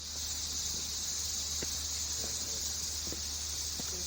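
Steady, high-pitched chorus of insects such as crickets, with a few faint short chirps or clicks scattered through it.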